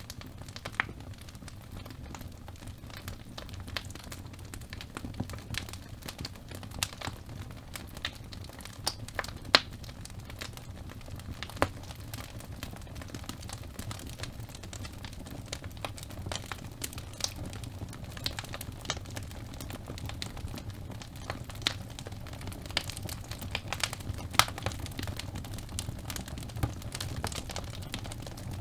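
Wood fire burning in a fireplace: a steady low rumble of flames with irregular sharp crackles and pops from the burning logs, one pop louder than the rest about nine seconds in.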